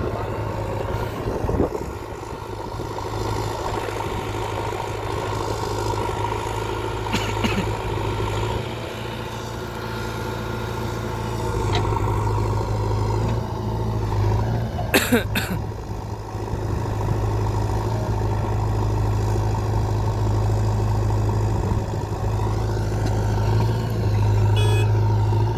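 Heavy diesel engine of earth-moving or farm machinery running steadily with a deep, even hum, getting louder about halfway through. A few sharp knocks or clanks cut through it, the loudest about fifteen seconds in.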